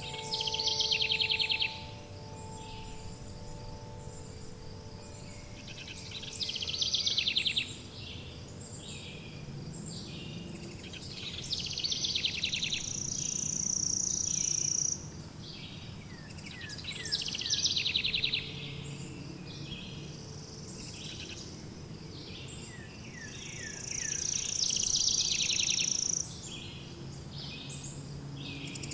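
Songbirds singing repeated phrases of fast trills every few seconds, two of them ending in a long high whistle, over a steady low ambient hum. Wind chime tones die away in the first few seconds.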